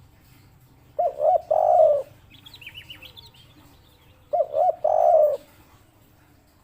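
Spotted dove giving its three-part 'kuk 3' coo twice: two short notes, then a longer, fuller one each time. A few fainter high chirps come between the two phrases.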